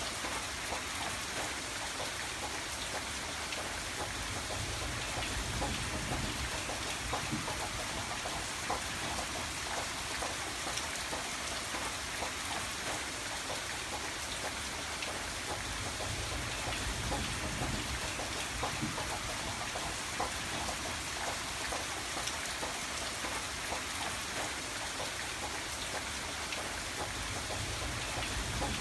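Steady rainfall, with many separate drops heard striking a surface and a low rumble that swells and fades a few times.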